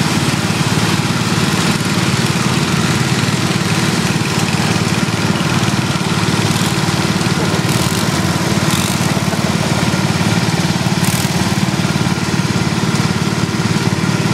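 Small lawn and garden tractor engine running steadily at a constant speed.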